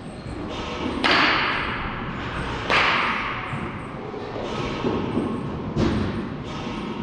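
A series of sharp baseball impacts with echo during practice. Two loud hits come about a second and a half apart, followed by softer ones near the end.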